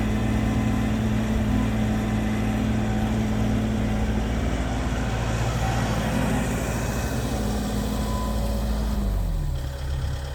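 Heavy diesel engine running steadily at high revs, without much howl. About nine seconds in, the revs drop and the pitch falls.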